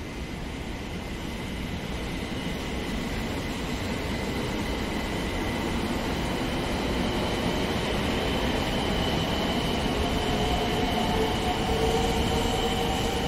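A Sanyo Shinkansen train approaching, its running noise growing steadily louder, with a high steady whine over it and lower tones joining near the end.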